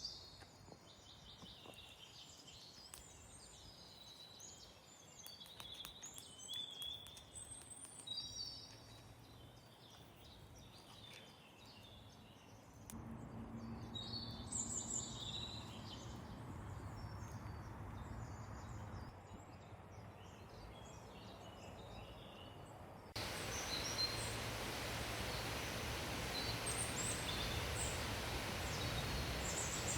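Wild birds chirping and calling, many short high notes, over a steady outdoor background. About three-quarters of the way through, the background abruptly becomes a louder, even hiss that lasts until near the end.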